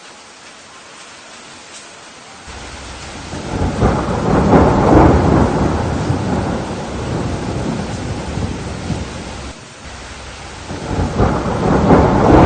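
Steady rain, with a long rumble of thunder that builds about three seconds in and dies away several seconds later. A second roll of thunder starts near the end.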